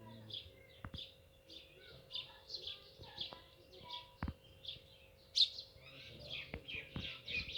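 Small birds chirping and twittering busily, several short high chirps a second overlapping, with one louder, sharper chirp about five and a half seconds in. A few faint clicks and a low steady hum sit underneath.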